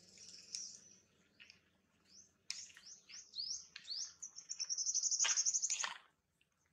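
Small birds chirping: a few short high chirps, then a quick series of rising chirps and a rapid, high trill of about ten notes a second that stops just before the end.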